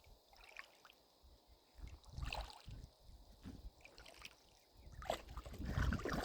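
Water sloshing and gurgling, with low rumbling surges about two seconds in and again near the end.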